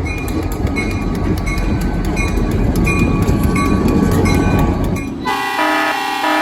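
Diesel train rumbling past with a regular clicking of wheels over rail joints, then a loud multi-note train horn sounds about five seconds in.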